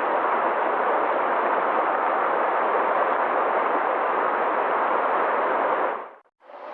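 Mountain river water rushing steadily. Near the end it cuts out briefly and fades back in with a brighter rush.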